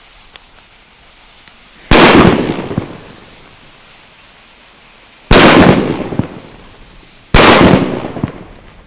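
Three loud firecracker bangs from El Gato 'Sustos Trueno' bangers, about two seconds in, a little past five seconds and just past seven seconds, each echoing away over about a second.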